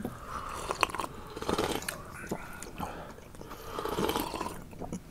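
Close-up eating sounds: chewing and biting on roasted meat pulled off the bone, with small wet mouth clicks and soft sips from a drinking bowl.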